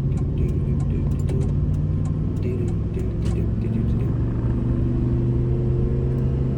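Pickup truck engine running while driving, heard from inside the cab, with scattered light rattles; the engine note rises slowly in the second half as the truck speeds up.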